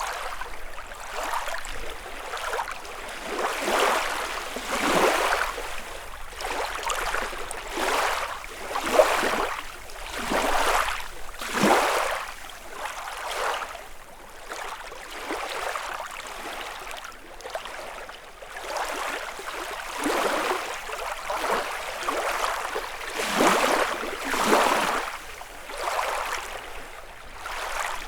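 Small lake waves lapping and splashing against the shore, in irregular swells every second or two.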